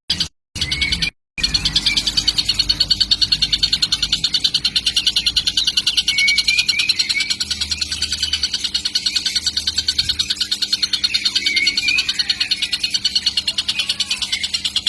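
Young kingfisher (tengkek) chick calling with a continuous, fast buzzing chatter of many even pulses a second, with a few short wavering notes mixed in. It starts in choppy fragments, then runs unbroken from about a second and a half in.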